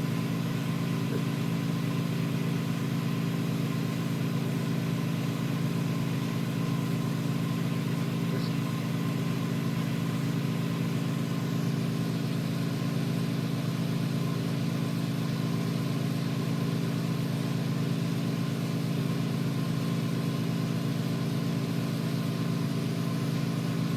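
Steady, unchanging mechanical hum with a strong low drone, typical of glass-working shop equipment such as a burner blower or pump running continuously.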